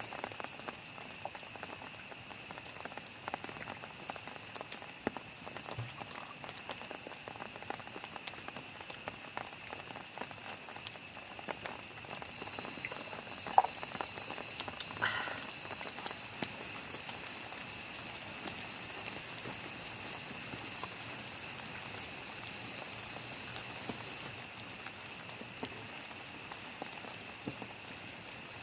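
Steady rain falling. About twelve seconds in, a loud, steady high-pitched buzz starts over the rain and cuts off about twelve seconds later, with a single sharp click soon after it begins.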